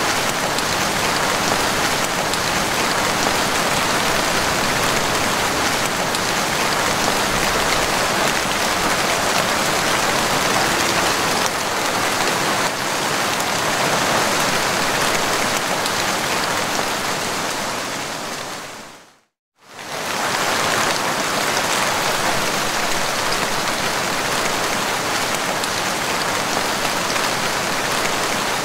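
Heavy rain falling steadily, a dense even hiss of drops. About two-thirds of the way through it fades out to silence over a second or so, then quickly comes back at full strength.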